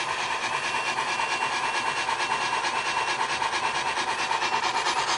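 Sound decoder of an MTH HO scale Union Pacific Big Boy model steam locomotive playing steam chuffing through the model's small speaker as it runs, a fast, even rhythm of chuffs.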